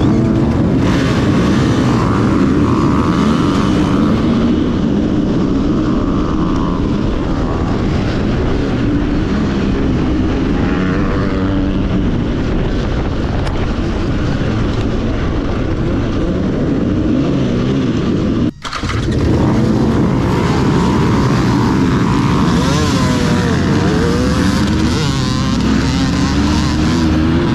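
Two-stroke dirt bike engine running hard at racing pace, its pitch rising and falling as the throttle works. The sound breaks off for an instant about two-thirds of the way through, then continues.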